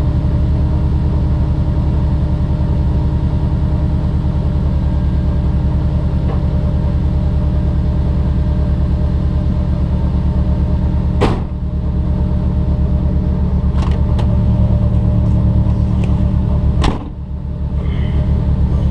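Subaru Forester's compound-turbo flat-four boxer engine running steadily at low speed with a regular low pulse, heard from inside the cabin. Two sharp knocks come through, one a little past halfway and one near the end.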